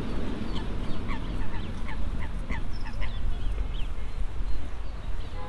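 Waterbirds calling over and over, a run of short calls that each drop in pitch, about two a second, over a steady low rumble.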